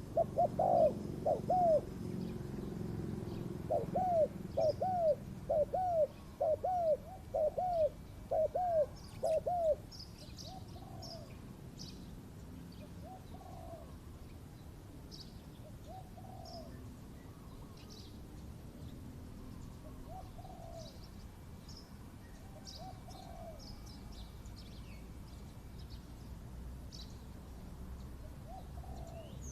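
Spotted doves cooing: a fast run of short arched coos for the first ten seconds or so, then fainter coos spaced several seconds apart, with small birds chirping high and briefly in between.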